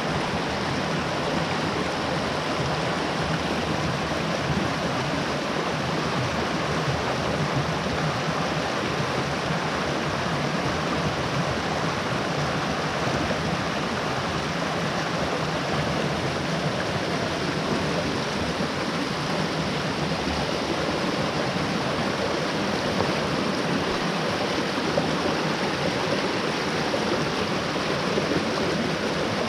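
Mountain stream rushing, a steady, unbroken sound of flowing water.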